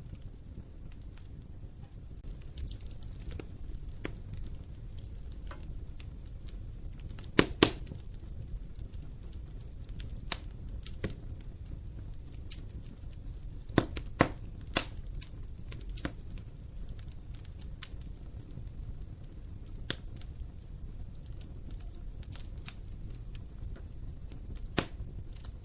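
Wood fire burning in an open fireplace: a steady low rumble of flames with scattered sharp crackles and pops, the loudest a quick double pop about seven seconds in and a cluster of pops around fourteen seconds.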